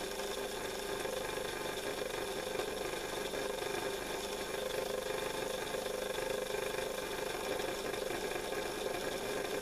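Model locomotive's small electric motor running at a steady speed, turning its driving wheels, a steady hum holding several fixed tones.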